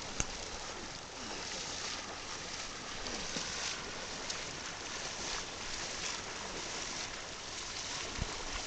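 Steady rush of flowing river water, with a sharp click just after the start and a few faint knocks.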